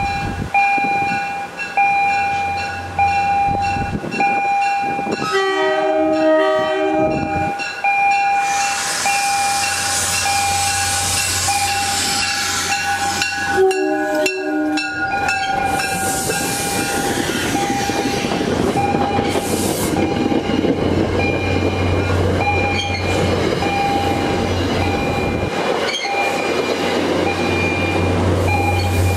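MBTA commuter rail train arriving. Its horn sounds a chord, one blast of about two seconds about six seconds in and a shorter one about fourteen seconds in, then the bilevel coaches rumble past over the rails. A bell rings in a steady, even rhythm all along.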